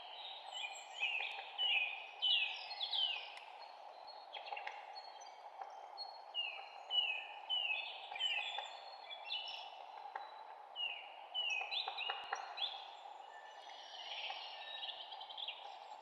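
Several songbirds chirping and singing in quick runs of short notes, many of them falling in pitch, over a steady background hiss.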